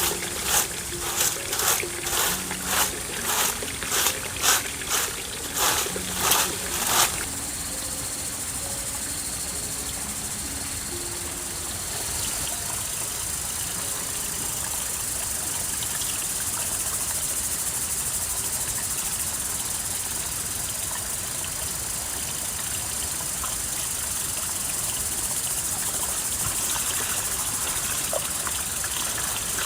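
A series of sharp rhythmic strokes, about two a second, for the first seven seconds, then water trickling and running steadily.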